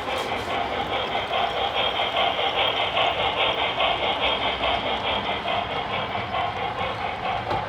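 HO scale model train running along the layout's track: a steady, fast-fluttering rolling and whirring from its wheels on the rails and its locomotive's motor, swelling slightly in the middle.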